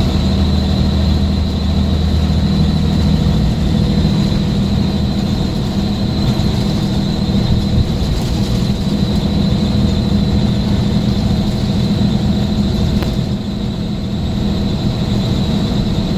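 Scania S400 bus engine running steadily under way, with a thin steady high whine above it; the sound eases briefly about thirteen seconds in.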